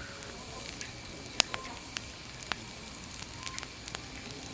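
Firewood burning with a steady soft hiss and irregular sharp crackles and pops, the loudest about a second and a half in.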